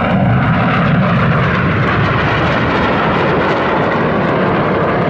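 BAE Hawk T1 jet trainers flying past, their Adour turbofan engines making a loud, steady rushing roar that swells just as it begins.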